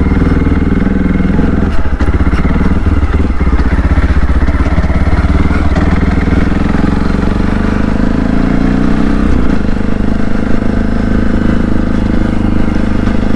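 CSC RX4 motorcycle engine pulling away and running at low speed. Its pitch rises and falls with the throttle.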